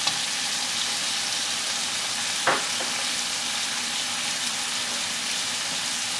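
Food frying in a pan, sizzling steadily, with a single sharp knock about two and a half seconds in.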